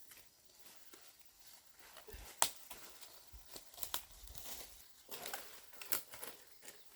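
Scattered crinkling and sharp clicks of something being handled, the loudest snap about two and a half seconds in and more near the end.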